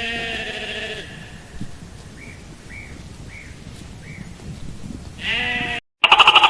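Livestock bleating twice, a drawn-out bleat at the start and a shorter one about five seconds in, with four faint short chirps between them. The sound drops out briefly, then a louder, different animal call begins near the end.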